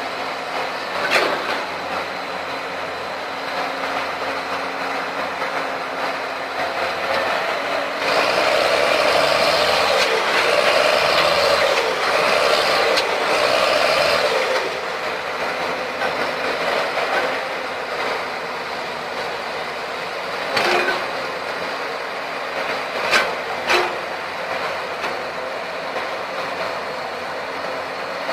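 Heavy earthmoving machinery at work: diesel engines running steadily, with a louder stretch of about six seconds a third of the way in and a few sharp metallic clanks, twice in quick succession near the end.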